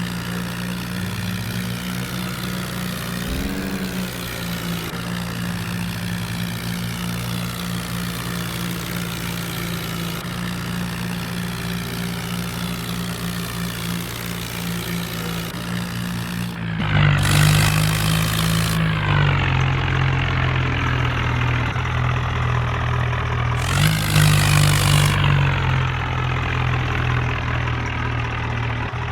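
Tractor diesel engine running steadily, then revved up hard twice, about 17 seconds in and again about 24 seconds in, each burst lasting a second or two before dropping back.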